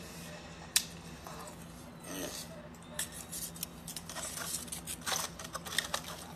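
Close-up eating sounds: chewing with wet mouth clicks and smacks at uneven intervals, the sharpest click about three-quarters of a second in, over a faint steady hum.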